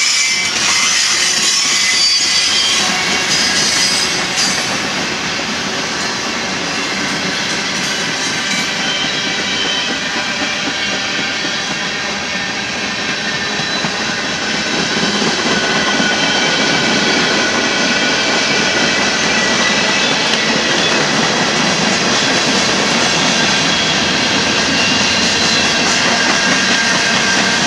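Freight cars of a mixed freight train rolling past at trackside, a steady rumble and rush of steel wheels on rail. Thin high squeals from wheels on the curve come and go.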